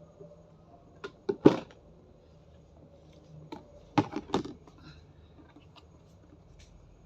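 Sharp knocks and clatters of objects being handled, in two clusters. A few come about a second in, the loudest near a second and a half, and another group comes around four seconds in.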